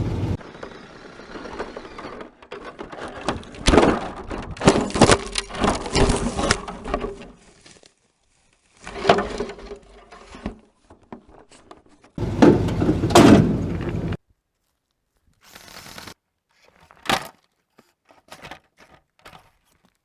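Knocks, thuds and clattering in several short separate stretches, with abrupt silent gaps between them.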